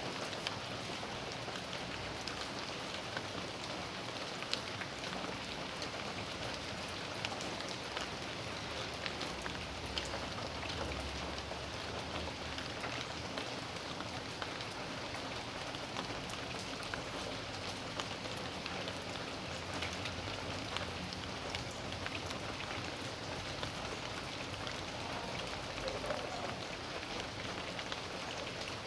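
Steady rain falling on a backyard, an even hiss of rainfall with many small drips and patters of drops striking surfaces.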